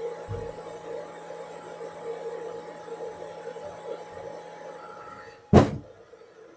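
A steady low electrical hum that stops about five seconds in, followed shortly by a single loud knock.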